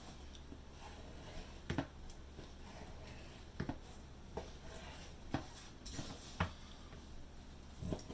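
Knife cutting raw chicken breast into pieces on a cutting board: about six separate knocks of the blade meeting the board, spaced irregularly a second or so apart.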